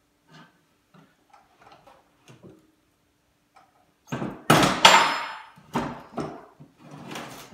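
Metal dolly parts knocking and clanking as the kickstand tray is handled and set onto the frame: light taps at first, then a loud clatter about four seconds in with a brief metallic ring, followed by a few more knocks.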